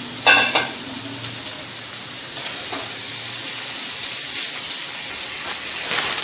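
Raw potato strips frying in hot oil in a kadai, a steady sizzle. A loud ringing metal clank against the pan comes just after the start and a smaller one about two seconds later, and a metal spatula stirs and scrapes through the potatoes.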